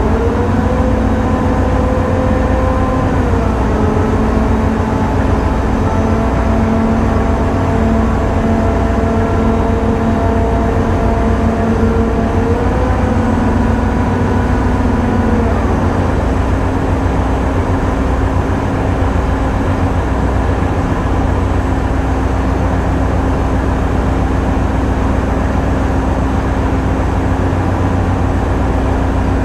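Tugboat diesel engines running with a steady low drone, while the towing winch whines as it pays out the towing cable; the whine rises in at the start, shifts pitch a few times and stops about halfway through.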